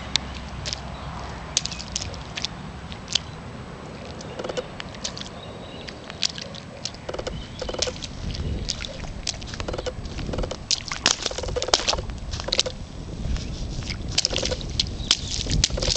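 Splashing and sloshing in puddle water: irregular sharp taps and splashes over a steady hiss, getting busier in the second half.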